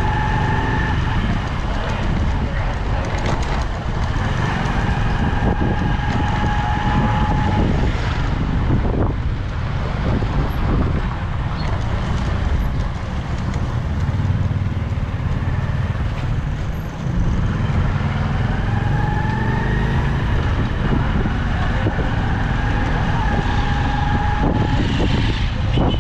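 Motorcycle riding through city traffic: engine running with heavy wind rumble on the microphone, and a pitched whine that comes and goes several times, rising in pitch once past the middle.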